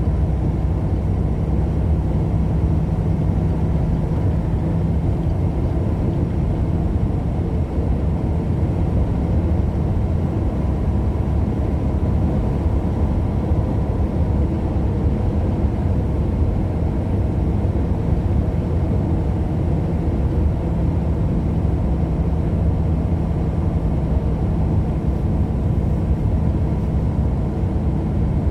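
Steady road and engine noise of a moving car, a constant low rumble with no changes.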